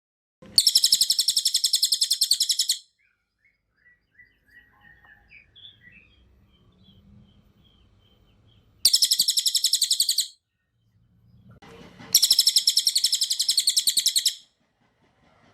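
A cililin (crested jay) giving three loud, fast, high-pitched rattling call bursts, each about two seconds long, the first near the start and the other two close together near the end, with faint soft chirps in the gap between them.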